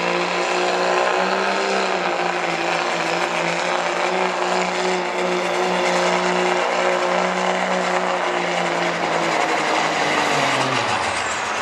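Turbo-diesel pickup truck engine pulling a weight sled at high revs, a loud steady drone held for most of the pass. Near the end the revs fall sharply as the engine winds down, and a high turbo whine drops in pitch with it.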